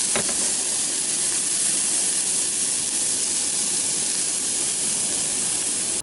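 Chicken and onion slices sizzling in a cast-iron skillet: a steady hiss.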